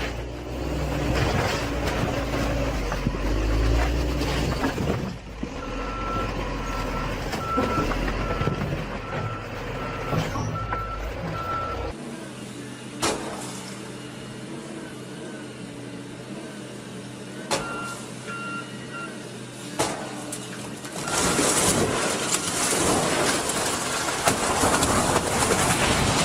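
Heavy truck engines running, with a reversing alarm beeping at a steady pace, about one beep every 0.7 seconds, and a few sharp clicks. The engine sound changes abruptly twice.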